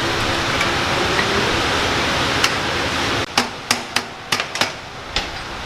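A series of sharp knocks, about eight in two seconds, starting a little past halfway, over a steady rushing hiss: hand tools tapping and knocking on motorcycle exhaust header parts as they are fitted.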